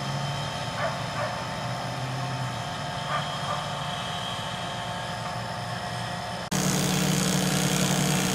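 A motor engine running steadily. About six and a half seconds in, the sound cuts abruptly to a louder, lower engine drone.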